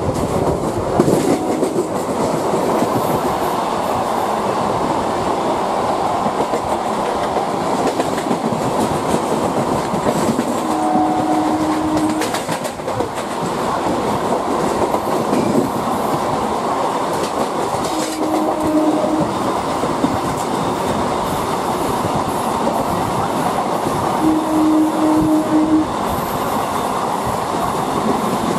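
Two electric trains running side by side at speed, heard from on board one of them: a steady rumble of wheels on rail with clickety-clack from the rail joints. A short horn-like tone sounds three times.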